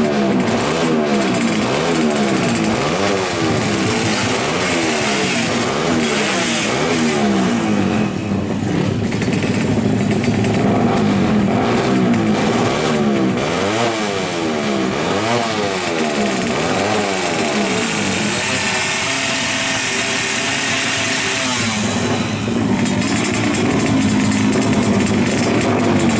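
Yamaha RX-King's drag-tuned two-stroke single-cylinder engine being revved, its pitch rising and falling about once a second. For the last several seconds it holds at a steadier speed.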